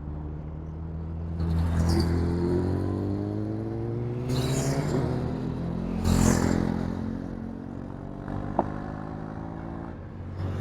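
Vehicle engine accelerating, its pitch rising steadily for a few seconds and then holding. Three short rushes of noise cut in along the way.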